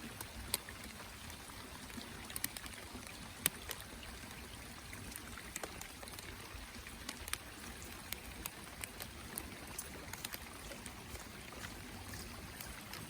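Water running and dripping: a steady trickling hiss with sharp drip-like ticks scattered at irregular intervals.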